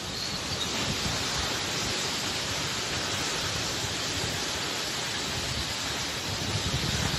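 Torrential rain pouring down, a steady, even hiss.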